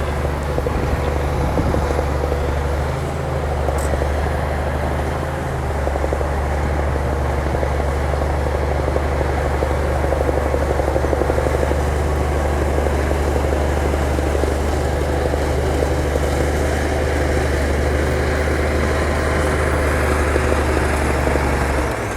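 Heavy diesel engine of an earthmoving machine running steadily, a deep drone with a constant mid-pitched whine over it.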